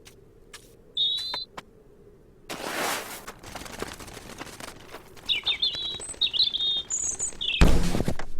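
Small bird chirping in short high tweets, once about a second in and then in a run of quick chirps from about five seconds on. A rushing noise comes in around two and a half seconds, and a loud thud lands near the end.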